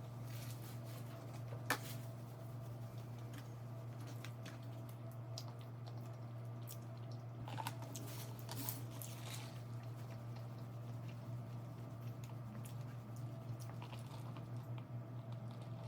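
Person chewing food close to the microphone, with soft wet mouth sounds and scattered small clicks over a steady low hum; a sharp click stands out about two seconds in.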